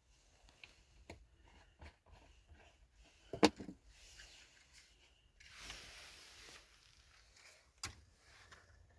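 Scattered handling clicks and knocks, with a sharp knock about three and a half seconds in, a short hissing rustle around six seconds, and another knock near the end.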